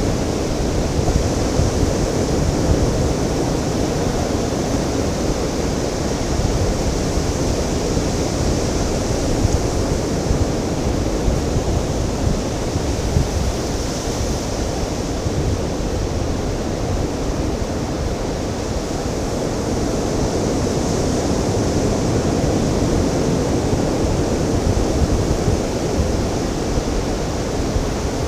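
Ocean surf washing onto a beach: a continuous rushing noise that swells and eases gently, with some wind on the microphone.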